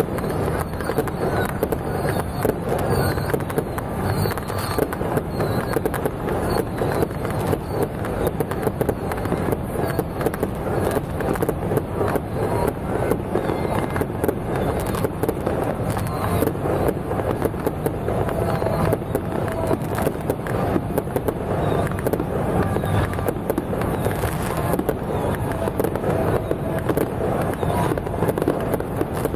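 Fireworks going off in a dense, continuous crackle of rapid bangs, with a few short whistles in the first several seconds.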